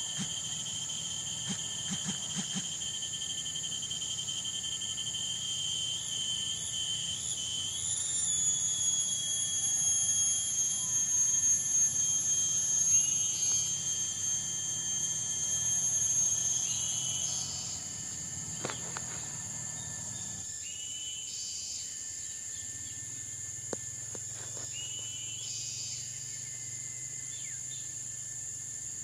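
Chorus of tropical forest insects calling in steady high-pitched trills. A louder buzzing call swells in about eight seconds in, rises a little in pitch, and cuts off at about seventeen seconds.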